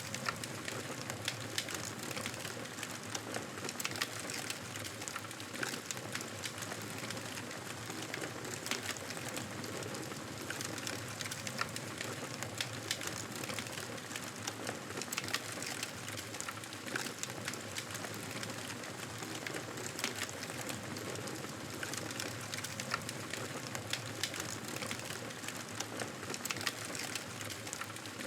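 Wood fire crackling steadily: a constant hiss with many small, sharp pops and snaps scattered throughout.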